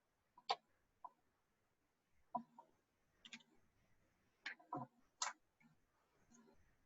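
Faint, scattered clicks and crackles of a sticky plastic cover sheet being pressed and smoothed down by hand to squeeze out air bubbles, about eight short ticks at irregular intervals.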